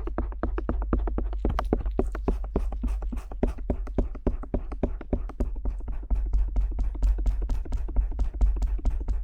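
Stainless-steel ear pick tapping and scraping against the rubber ear of a 3Dio binaural microphone in quick, even strokes, about five or six a second, each stroke a close, crisp click over a deep contact rumble.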